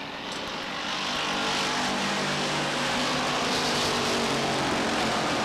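A pack of short-track stock cars racing past at speed, several engines at once, growing louder over the first second and then holding a steady din.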